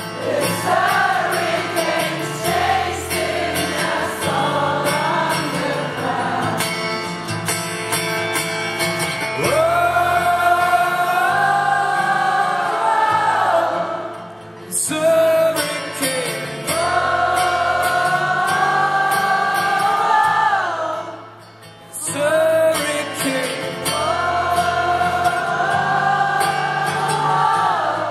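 Rock band playing live, with long held sung notes of about four seconds each over the band. There are brief drops in loudness between the phrases.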